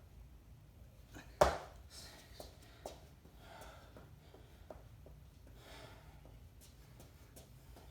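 A single sharp thump about one and a half seconds in, followed by a few faint knocks and soft heavy breaths from a person exercising.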